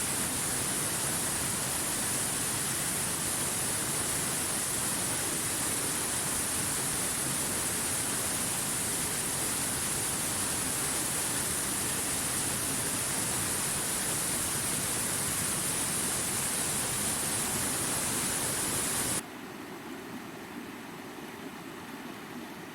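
Rushing stream water splashing over rocks, a steady hiss-like rush. About 19 seconds in it cuts off abruptly to a quieter, duller rush.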